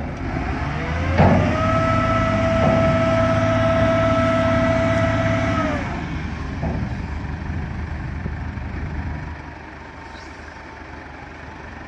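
Heavy truck running, with a knock about a second in and then a steady high whine over the engine rumble for about four seconds. The sound then dies down to a quieter running.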